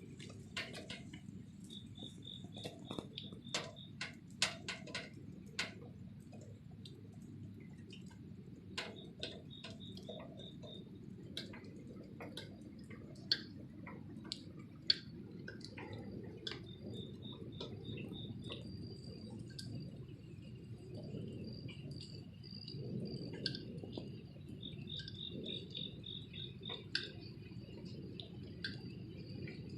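Rain dripping and tapping in irregular clicks over a low steady rumble of rainfall. Runs of high chirps repeat in short bursts, and from about halfway a steady high cricket chirring joins in.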